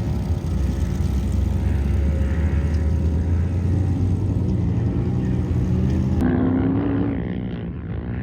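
Off-road vehicle engines running: a deep, steady engine note whose pitch slowly rises as it accelerates. About six seconds in the sound changes abruptly to a higher engine note that revs up, then revs up again near the end.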